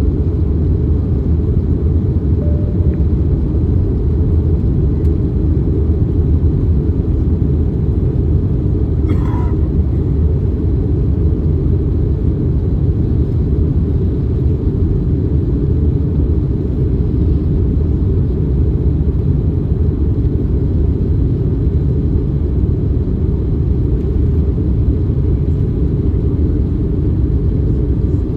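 Steady low cabin rumble inside an Airbus A321neo in flight: engine and airflow noise heard from a window seat.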